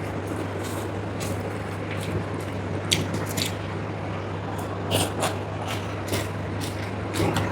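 Mukbang eating sounds: chewing and wet mouth smacks with scattered short clicks, over a steady low hum.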